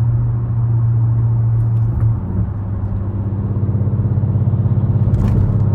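2013 BMW 550i's twin-turbo V8, running through an H-pipe, catless downpipes and a muffler delete, droning steadily as the car drives. The note changes about two seconds in, then carries a fast pulsing beat.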